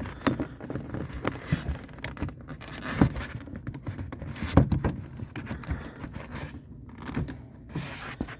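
Hard plastic door-panel and handle parts being handled and fitted together: irregular clicks, knocks and scrapes, the loudest knocks about three and four and a half seconds in.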